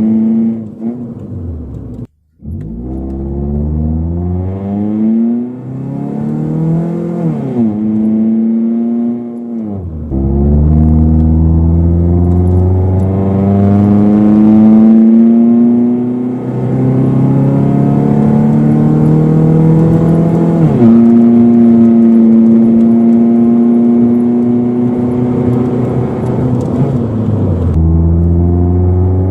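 A car's engine and exhaust as it accelerates through the gears: the engine pitch climbs, then drops sharply at each shift, several times over. In the second half it holds a steady pitch for several seconds, then drops and climbs again near the end. The sound cuts out for a moment about two seconds in.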